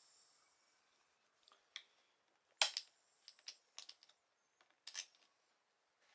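Faint, scattered clicks and light taps, about half a dozen, the sharpest a little over two and a half seconds in, with no engine or starter running.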